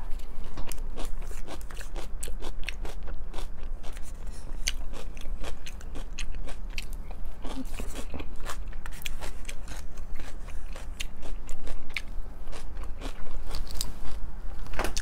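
Close-up chewing of coleslaw: a steady run of small crisp crunches and mouth clicks.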